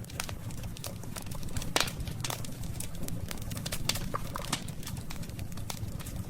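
Wood campfire crackling, with frequent irregular sharp pops and snaps over a low steady rumble of the burning fire; one louder pop about two seconds in.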